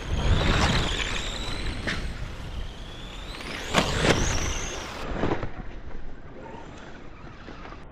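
Electric motors of radio-controlled off-road buggies whining, the pitch rising as the cars accelerate, with a few sharp knocks from the cars on the track, the loudest about four seconds in.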